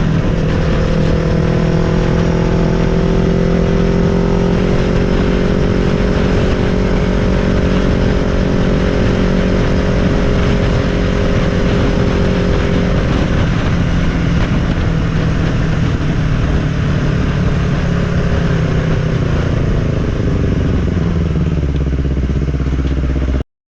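Yamaha MT-03 motorcycle engine running under way at a steady engine speed, its note slowly dropping in pitch over the second half as the engine speed falls. The sound cuts off suddenly near the end.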